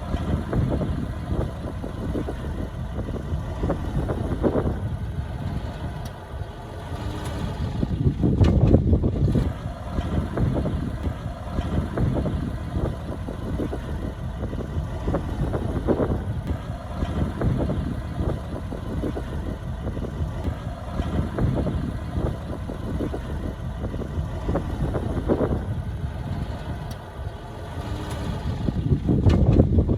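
Diesel engine of heavy earthmoving machinery running steadily, louder for a moment about a third of the way in and again near the end.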